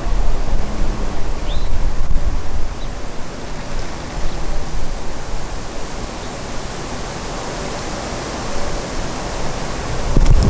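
Strong wind rushing through the trees and buffeting the microphone, in gusts that are heaviest at the start and again near the end, with a steadier, softer rush in between.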